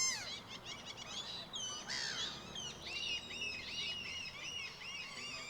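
A flock of birds calling over one another: many short, high, arched calls overlapping, with a loud call right at the start.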